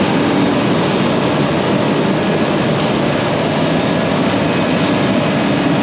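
Concrete mixer truck running steadily, its drum turning to mix the load before it is unloaded.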